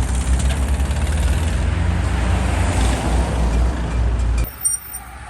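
Volkswagen Beetle's engine running hard as it pulls away, a loud steady low rumble that cuts off abruptly about four and a half seconds in.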